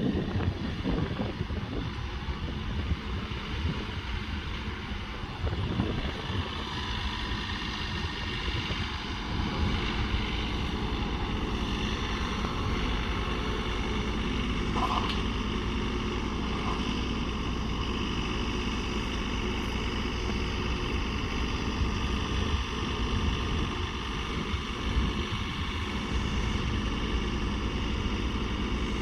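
John Deere 3043D compact tractor's diesel engine running steadily, with wind buffeting the microphone during the first several seconds.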